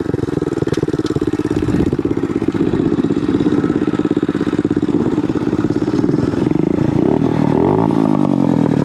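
Motorcycle engine running steadily, its pitch dropping near the end.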